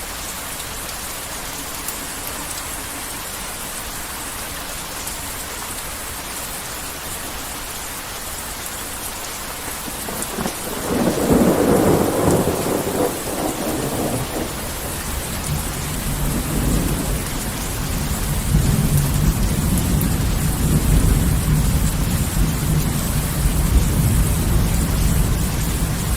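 Steady heavy rain, then thunder breaks in about eleven seconds in with a sharp clap and rolls on as a long, deep rumble that swells and keeps going under the rain to the end.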